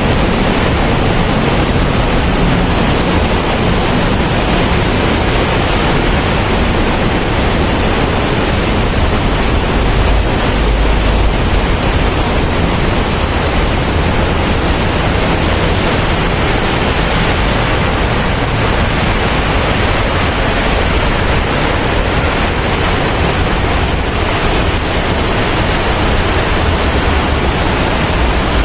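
Man-made waterfall pouring steadily: a loud, even rush of falling water.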